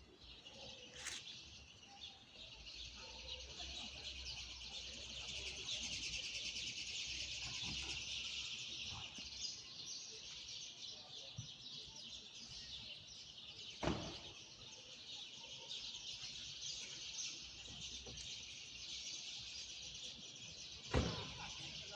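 Many small birds chirping and singing together in a dense, continuous high chorus that swells in the middle. Two sharp knocks cut through it, one about two thirds through and one near the end.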